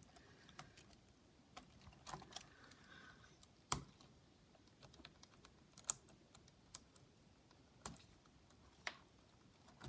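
Faint, scattered light clicks and taps from handling a laptop's plastic parts and a cable connector, roughly one a second, the sharpest click a little under four seconds in.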